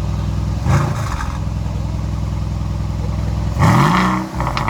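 2021 Mercedes-AMG GLC 63's twin-turbo 4.0-litre V8 idling through its stock exhaust with the exhaust valves open, blipped briefly about a second in, then revved harder near the end, the pitch rising and falling, followed by a quick run of crackles from the exhaust.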